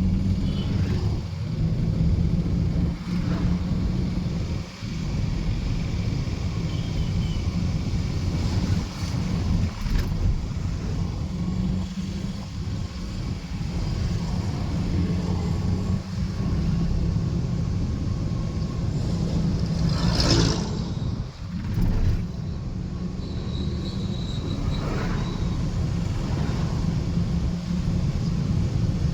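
A car driving, with a steady low engine and road rumble. A short, louder burst of noise comes about twenty seconds in.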